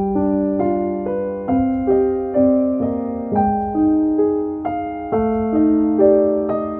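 Gentle background piano music: single notes struck about every half second, each ringing and fading.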